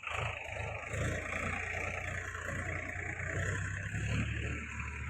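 Farm tractor engine running steadily, a low, even hum.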